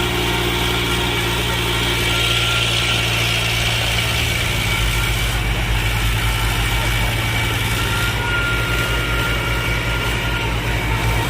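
Diesel tractor engine running steadily. A low, even pulsing throb sets in about four and a half seconds in.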